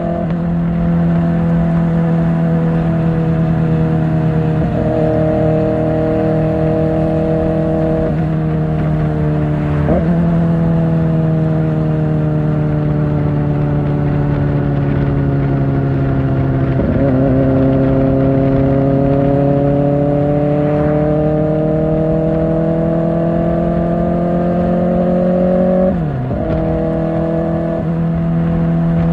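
Kawasaki Ninja ZX-4R inline-four with an Akrapovic exhaust, running under way at a steady cruising pitch. The engine note slowly sinks and climbs with the throttle, with short breaks for gear or throttle changes about ten seconds in, around seventeen seconds, and near the end.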